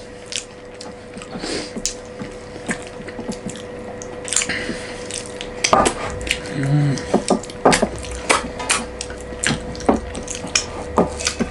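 Close-miked eating sounds: irregular clinks and clicks of plates and utensils with wet, liquid mouth sounds, the clinks coming thicker about halfway through.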